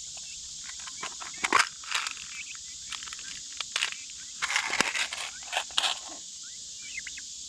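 Steady high drone of crickets and other insects, with irregular rustles and clicks of hands handling things between about one and six seconds in, loudest in two clusters. A few short bird chirps near the end.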